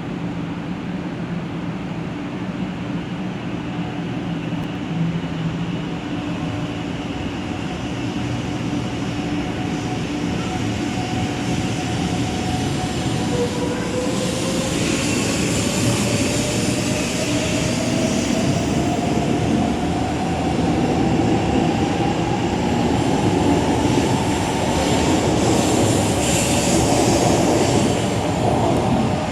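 500 Series Shinkansen pulling away from the station. The traction motor whine appears about halfway through and rises steadily in pitch as the train accelerates, over growing running noise that gets louder toward the end.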